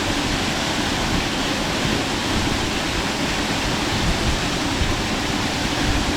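Waterfall pouring into a mountain gorge: a steady, unbroken rush of falling water.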